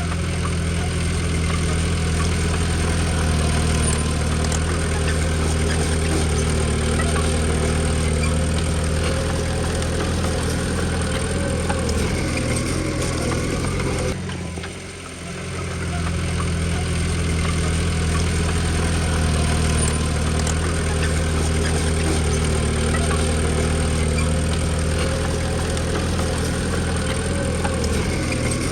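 Komatsu D20P bulldozer's diesel engine running steadily, with a brief drop in loudness about halfway through.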